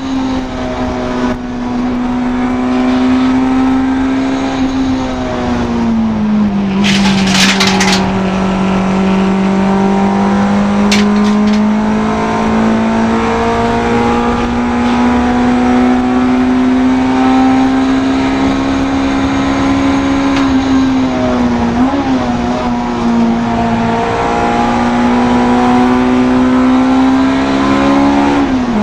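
Honda Integra DC2 race car's four-cylinder engine running hard at high revs. Its pitch drops about five seconds in and then climbs slowly, with another short dip about three-quarters of the way through and again near the end. A brief burst of rattling noise comes about seven seconds in.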